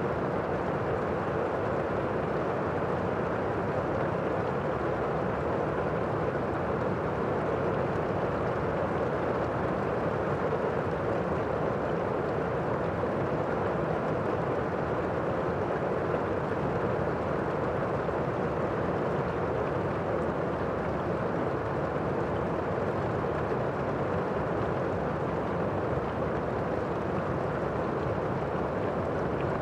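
Steady rainfall, an even dense hiss with no single drops or thunder standing out.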